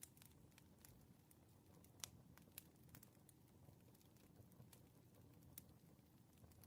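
Faint crackling wood fire: irregular sharp pops and snaps over a soft low rumble, the loudest pop about two seconds in.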